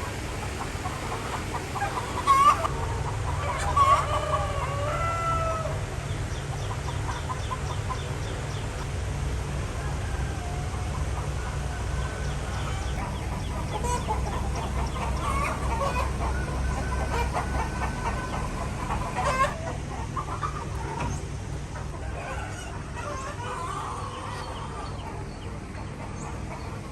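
A flock of chickens clucking, with a rooster crowing about four seconds in, over a steady low hum. A few sharp knocks stand out, the loudest at about 2.5 and 4 seconds and again near 19 seconds.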